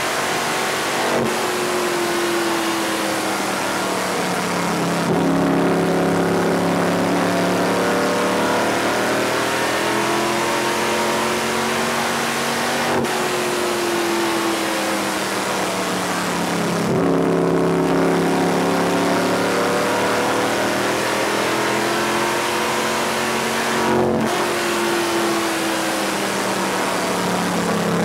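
NASCAR-style stock car V8 running at speed on an oval, heard from inside the car. Its pitch drops and climbs back several times as the driver eases off and gets back on the throttle.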